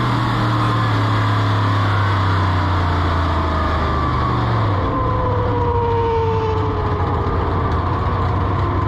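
Drag race car engine running with a steady low drone, then its pitch gliding down over a couple of seconds about halfway through.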